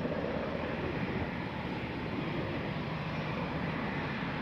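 Jet aircraft engine noise: a steady rumble with no breaks or distinct events.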